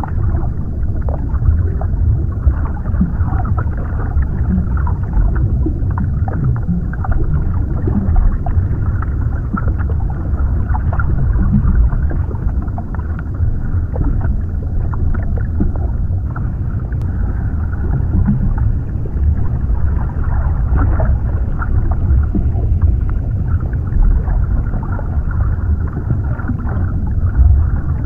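Underwater ambience: a steady, muffled low rumble with small scattered pops and gurgles.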